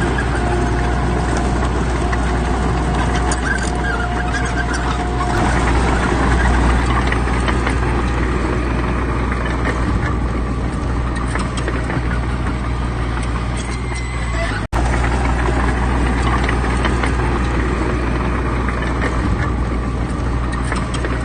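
Heavy diesel engines of earthmoving machinery, bulldozers and dump trucks, running steadily with a deep drone. A steady whine rides over it for the first five seconds, and the sound breaks off for an instant about two-thirds of the way through.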